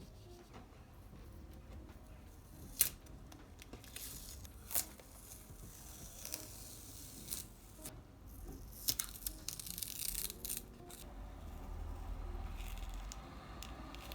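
Intermittent tearing and crinkling from handling paper-art materials, with a few sharp clicks.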